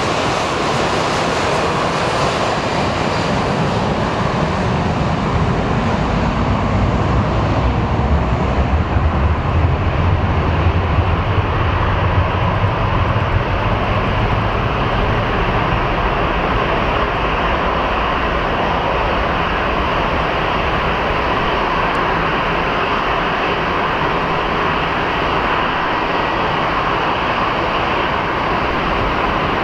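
Four-engine Airbus A340-300 jet airliner taking off at full power on a wet runway: a loud, continuous engine rumble. The deep rumble swells about a third of the way in, and the high hiss fades away as the aircraft moves off.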